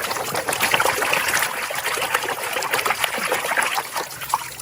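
Water trickling and splashing steadily, with many small irregular taps and clicks through it.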